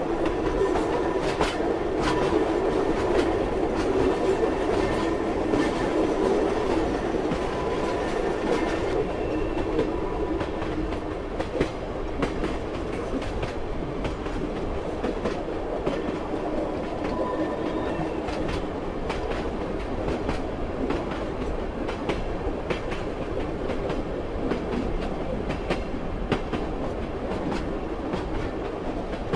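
Moving train's wheels clacking over the rail joints, with a steady rolling rumble and scattered sharp clicks.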